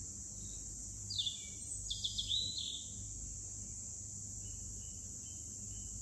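A songbird sings a short phrase of quick downward-sweeping whistles about a second in, then a few soft repeated notes near the end, over a steady high insect drone and a low hum.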